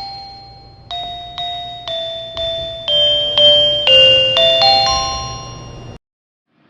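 Railway station departure melody: an electronic, bell-like chime tune of struck notes about two a second, getting louder toward the end, then cutting off suddenly about six seconds in.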